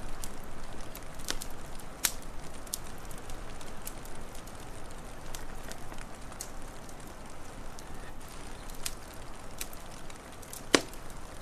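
Wood fire crackling, with scattered sharp pops over a steady hiss; the loudest pop comes near the end.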